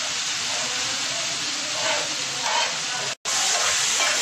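Chicken pieces, tomatoes and spices sizzling in oil on a hot tawa griddle, a steady hiss. The sound breaks off for an instant about three seconds in.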